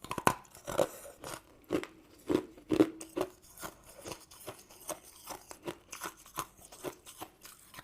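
Close-miked chewing of a crunchy sweet: a run of crisp crunches, the biggest ones in the first three seconds, then lighter, quicker chews.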